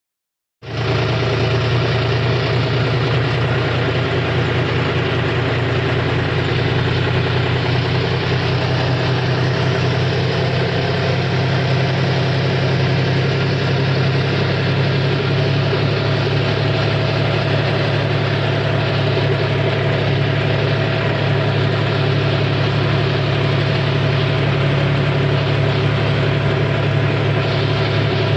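John Deere 5042D tractor's three-cylinder diesel engine running at a steady speed, with no revving or change in load.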